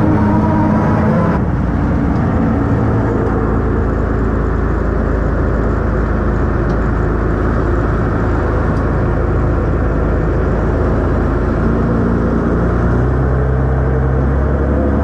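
A truck's engine running steadily while driving, with its pitch rising near the end as it speeds up.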